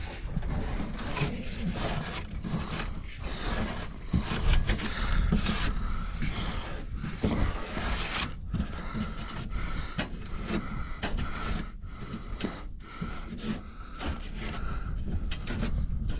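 Rustling, scraping and knocking as dry bird-nest material is pulled out of a gap by hand, mixed with camera handling noise. A faint steady tone comes in about halfway through and stops near the end.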